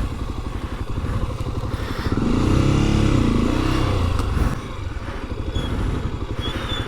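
Motorcycle engine running at low speed on a rough track. About two seconds in it revs up, louder, then the revs fall back again over about two seconds.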